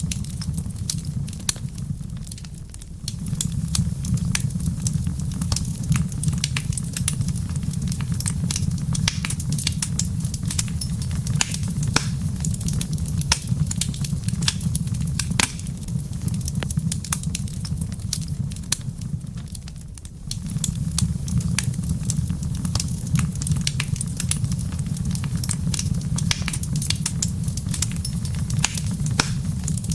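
Wood fire crackling in a fireplace: frequent sharp pops and snaps over a steady low rumble of the flames. The low rumble drops away briefly twice, about 2 seconds in and again around 20 seconds in.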